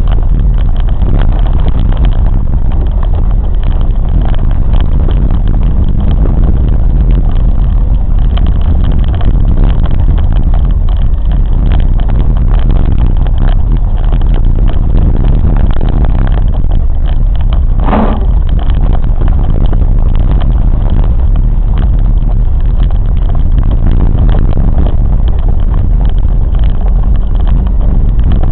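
Steady, loud low rumble of a moving train, with a brief higher-pitched note about two-thirds of the way through.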